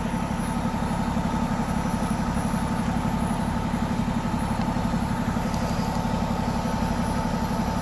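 A vehicle engine idling steadily close by, with an even low throb and a faint steady whine above it.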